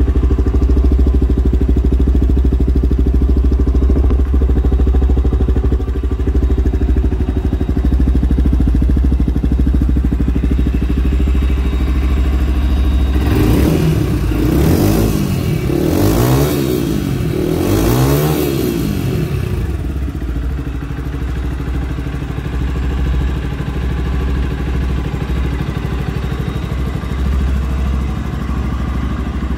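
Romet Scrambler SCR 125 Fi's 125 cc single-cylinder fuel-injected engine idling steadily. About halfway through it is blipped up in three quick revs, each rising and falling, then settles back to idle.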